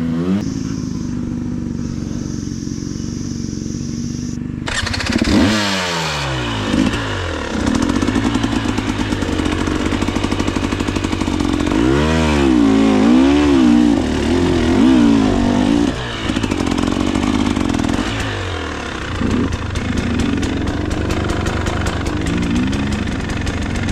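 2024 KTM 300 XC-W two-stroke dirt bike engine idling steadily for about four seconds, then pulling away under throttle. It revs up and down sharply several times as the bike rides along the trail.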